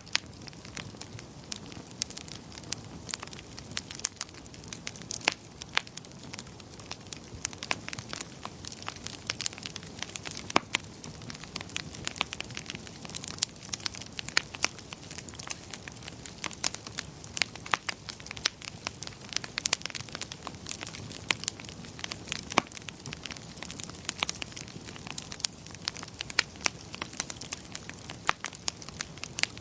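Wood fire crackling in a fireplace: irregular sharp pops, several a second, over a steady low hiss of the burning.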